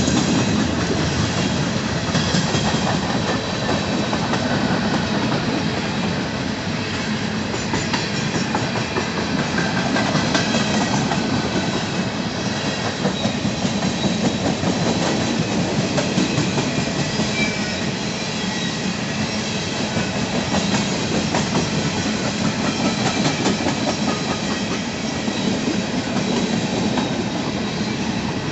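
Empty coal cars of a long freight train rolling steadily past, wheels clicking over the rail joints.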